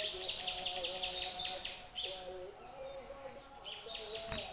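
A small bird calling in fast trains of short, high, downward-sweeping chirps, several a second. The chirps break off for a moment after about two seconds, then start again near the end, over a faint wavering lower tone.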